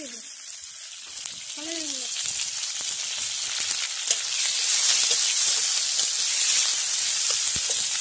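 Sliced shallots sizzling in hot oil in a black iron kadai, the frying growing louder over the first few seconds and then holding steady. A steel ladle clicks and scrapes against the pan now and then as they are stirred.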